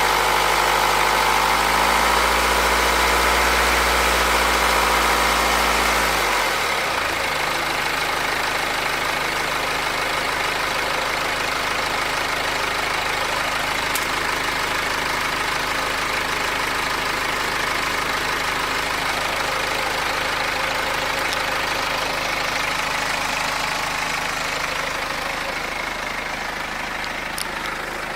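BMW X3 F25's 2.0-litre four-cylinder N47 diesel engine running slightly above idle, then dropping back to a steady idle about six seconds in. The car is recorded for a strange noise that the uploader links to the N47 timing chain.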